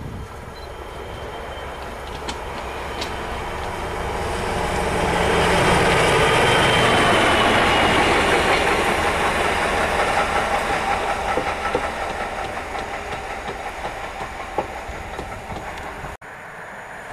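A train passing by on the rails: the rumble and wheel noise build over a few seconds, peak, then slowly fade away. The sound cuts off suddenly near the end.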